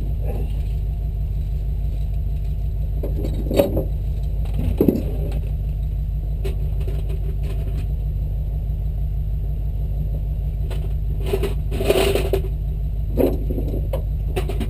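Jeep engine running steadily at low revs, heard close up from the hood, with a few short knocks and clunks now and then.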